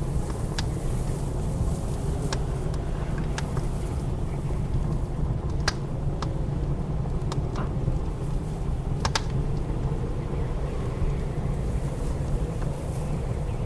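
Wood fire crackling in a fireplace, with scattered sharp pops, over the steady low rumble and howl of blizzard wind.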